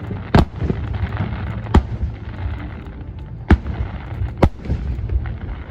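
Fireworks going off: four sharp bangs, spaced about one to two seconds apart, over a steady low rumble.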